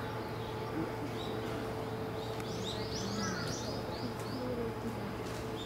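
A small bird twittering, a quick run of high chirps about halfway through, over a steady background hum.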